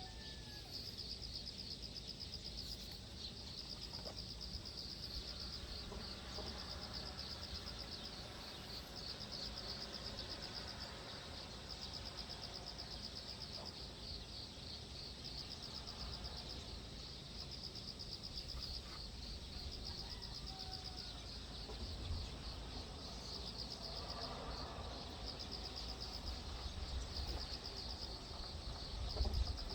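Insects trilling steadily, a fast pulsing high buzz, with a few faint bird chirps. A low rumble runs underneath, and there is a brief thump near the end.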